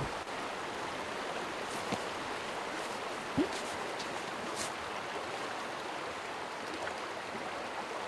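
Steady rush of river water flowing, with one short rising sound about three and a half seconds in.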